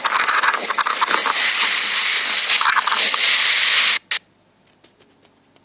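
Loud rushing, crackling noise of churning floodwater that cuts off suddenly about four seconds in.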